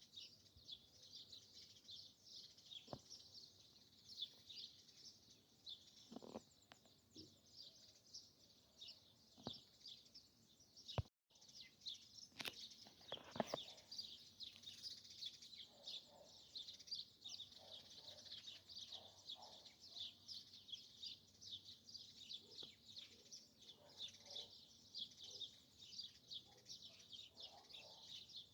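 Faint dawn chorus of many small birds chirping densely and without pause, with lower calls from other birds here and there, a few scattered clicks, and a brief gap about eleven seconds in.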